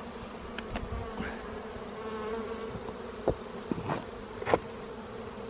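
Honeybee colony buzzing steadily around the opened hive, with a few short knocks, the loudest about three and four and a half seconds in.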